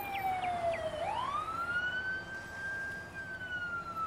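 Ambulance siren wailing: its tone falls to a low point about a second in, sweeps back up, holds, then slowly falls again. A quick run of short, higher chirps sounds over the first second.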